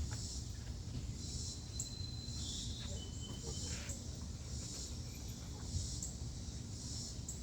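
Insects chirping outdoors in a pulsing chorus, about one high buzzy pulse a second, over a steady low rumble.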